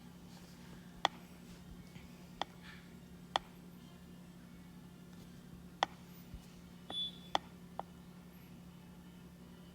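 Sharp, isolated clicks or taps, about seven at irregular intervals, typical of working an editing app on a device, with one brief high beep about seven seconds in, over a steady low electrical hum.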